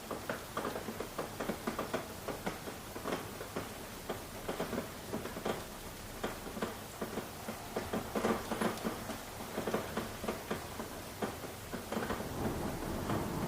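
Rain falling, with many separate drops striking a surface in an irregular patter over a steady hiss.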